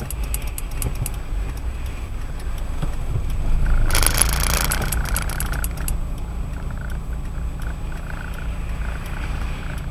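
Car driving on a wet road on Firestone Firehawk Sport 01 tyres: a steady low rumble of road and tyre noise with faint scattered ticks. About four seconds in a louder hiss of water spray swells for a second or so, then fades.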